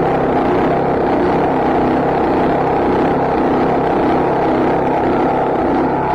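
Predator 212 single-cylinder small engine running steadily at a constant speed.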